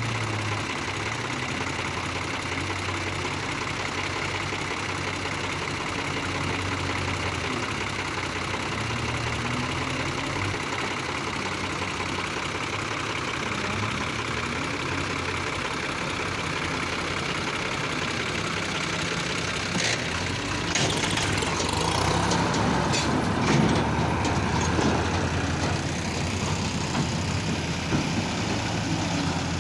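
A heavy diesel engine runs steadily. From about two-thirds of the way through it gets louder for several seconds, with clattering knocks and rattles over it.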